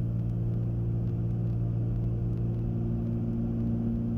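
Steady drone of a Cessna 310Q's twin six-cylinder piston engines, heard from inside the cabin in flight: an even hum with a strong low tone and a rumble beneath.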